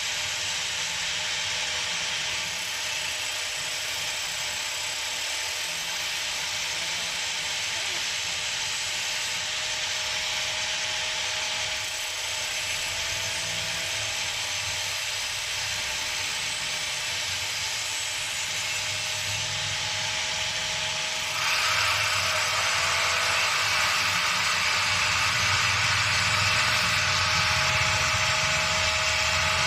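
Angle grinder running with a steady whine while its disc grinds a kitchen knife blade with a harsh hiss. About two-thirds of the way through the grinding turns suddenly louder and brighter and stays that way.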